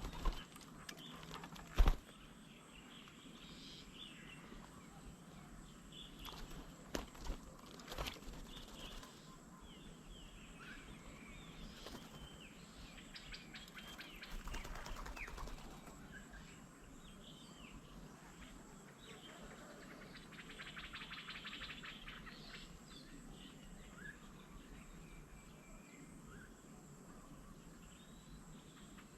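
Several wild birds chirping and calling, with short scattered notes and a rapid trill about twenty seconds in. A few sharp knocks stand out, the loudest about two seconds in.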